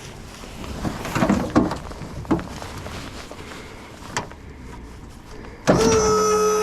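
Dump trailer's electric hydraulic pump cutting in suddenly near the end with a loud, steady whine as it raises the bed, after a few knocks over a low rumble.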